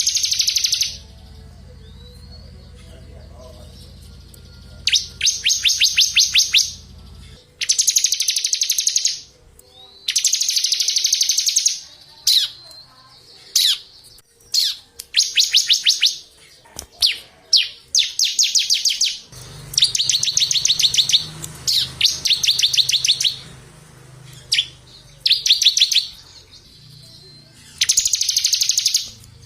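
Small songbirds singing in a masteran recording used to tutor competition songbirds: loud, high, rapid trills of one to two seconds each, repeated with short pauses. Quick sharp single notes fall between the trills near the middle.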